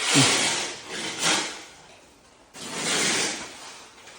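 Rubbing and scraping against wood in three bursts, the first the loudest: a person shifting and catching on wooden attic stairs.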